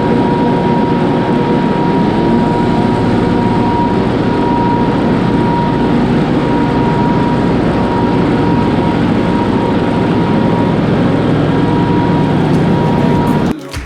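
BillyGoat debris loader running steadily at full speed: engine and vacuum fan noise with a constant high whine. It cuts off abruptly near the end.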